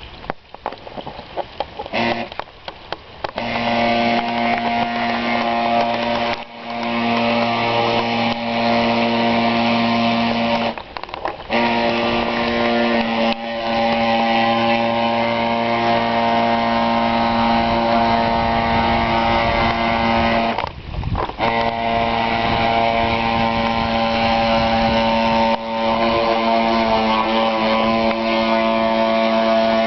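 Radio-controlled model boat's motor running at a steady pitch. It starts about two seconds in and cuts out briefly and restarts a few times.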